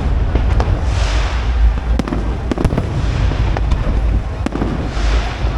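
Aerial fireworks display: a rapid, irregular series of sharp shell bursts over a continuous low rumble, with swells of crackling hiss about a second in and near the end.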